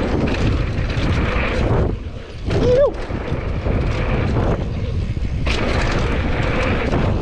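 Wind buffeting the action-camera microphone over the rumble and rattle of a Commencal Supreme DH downhill mountain bike rolling fast over rough trail. A short tone that rises and falls comes a little under three seconds in.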